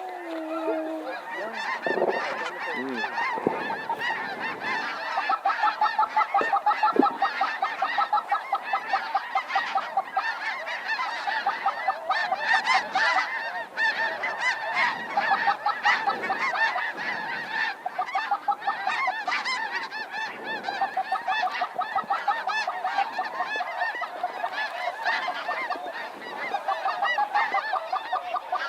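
A large flock of snow geese honking: a dense, continuous chorus of rapid, overlapping calls.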